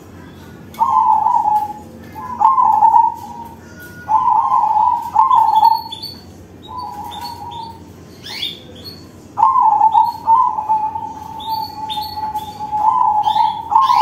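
Male crossbred zebra dove (perkutut crossing) singing its loud rolling coo: five short coo phrases of about a second each, then one long, drawn-out coo in the last few seconds. Short, higher chirps come in between the coos.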